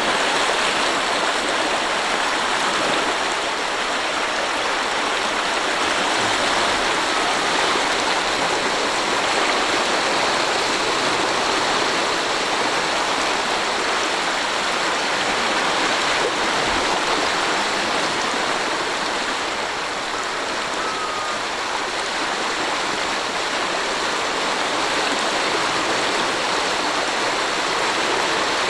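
The swollen Mandar River in flood, its fast, high water rushing steadily without a break.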